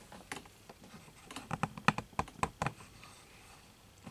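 Plastic-and-metal clicks and knocks of a camera tripod being handled and adjusted: a single click near the start, then a quick run of sharp clicks in the middle.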